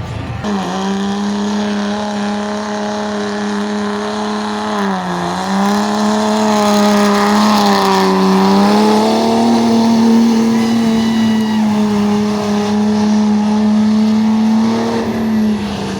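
A competition pulling truck's engine held at high revs under load through a pull run. The pitch dips briefly about five seconds in, holds steady, then drops near the end as the run finishes.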